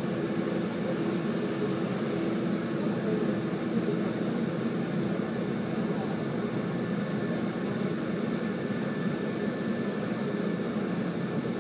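Steady running noise inside a 185-series electric train moving at speed, with a constant hum under the rumble.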